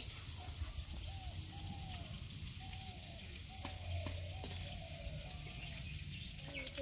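Faint bird calls: short, arching notes repeated about twice a second, over a steady background hiss.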